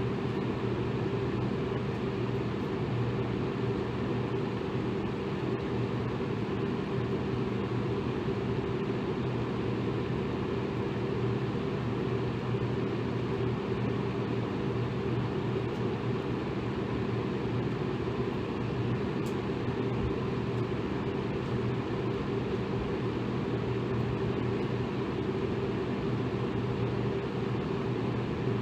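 Electric fan running steadily: an even whoosh of moving air with a constant low motor hum.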